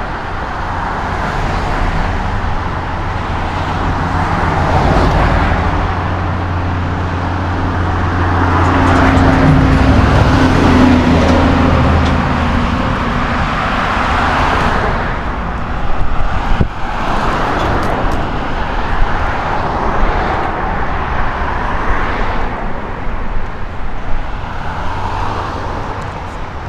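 Road traffic on a busy street: cars passing one after another in swells of tyre and engine noise, with a low engine rumble under the first half that fades out around the middle.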